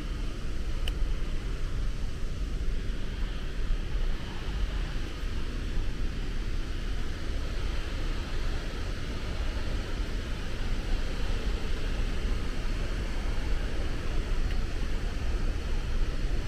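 Waterfall running: a steady, unbroken rush of falling water, heaviest in the low end with a hiss above.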